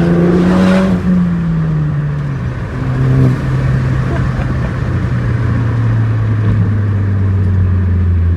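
Straight-piped 2017 Ford Focus ST four-cylinder turbo engine heard from inside the car, its muffler and resonator deleted: it revs up under acceleration, drops in pitch about a second in, then holds a steady drone while cruising, with a brief rise near three seconds in and a fall in pitch at the very end.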